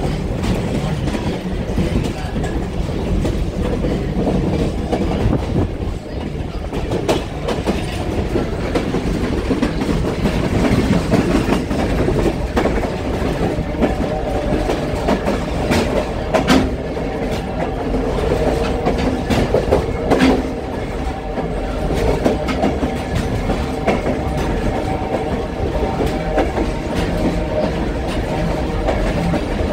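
Passenger coach of an excursion train rolling slowly along the track: a steady rumble of wheels and running gear, with sharp clacks now and then as the wheels cross rail joints.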